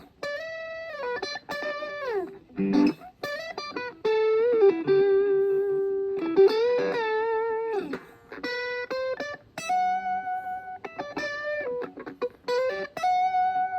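Electric guitar playing single-note lead lines with slides down in pitch. Near the middle a long note is held with vibrato.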